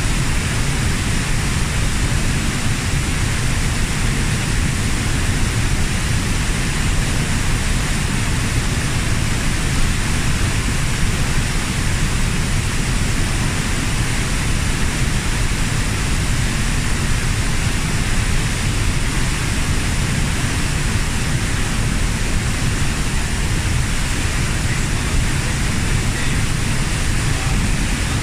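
The 15 m Kozjak waterfall: falling water making a steady, unbroken rush.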